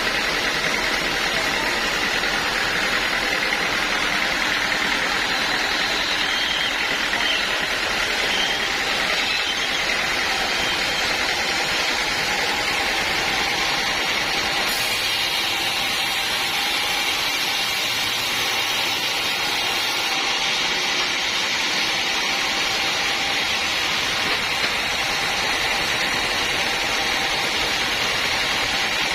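Sawmill machinery running steadily, a constant loud mechanical noise with a faint whine.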